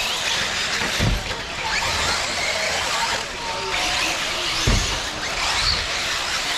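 RC off-road cars racing on a dirt track: several motors whining up and down in pitch over a steady wash of tire and track noise, with two low thumps, one about a second in and another a little over four and a half seconds in.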